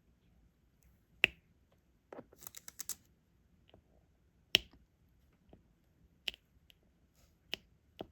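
Diamond painting: sharp plastic clicks as resin drills are picked up with a stylus and pressed onto the adhesive canvas. Two loud clicks, a quick cluster of small clicks about two seconds in, then a few more spaced clicks.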